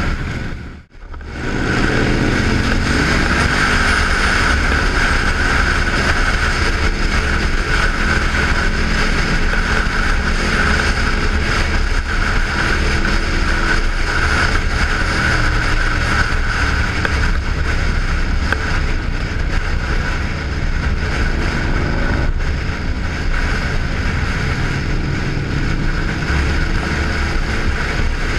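Motorcycle engine running on the move, its pitch drifting with the revs, under heavy wind noise on the microphone. The sound almost cuts out for a moment about a second in.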